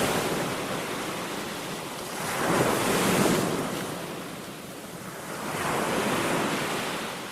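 Ocean waves breaking and washing up a beach, swelling and fading in a slow rhythm: three surges, the loudest about three seconds in.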